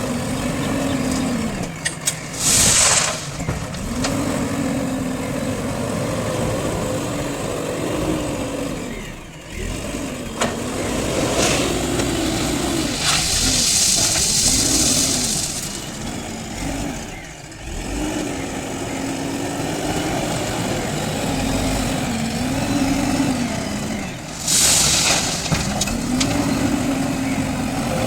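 JCB 3DX backhoe loader's diesel engine revving up and down again and again under hydraulic load while loading crushed stone into a dump truck. Loud bursts of hiss come about three seconds in, for a couple of seconds in the middle, and once more near the end.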